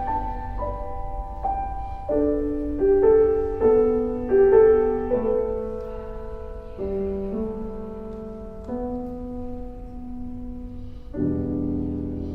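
Background piano music: slow notes and chords struck and left to ring.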